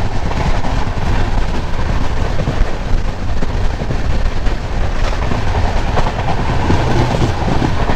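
Double-decker express train running on the rails: a steady rumble with a few clicks of the wheels over rail joints.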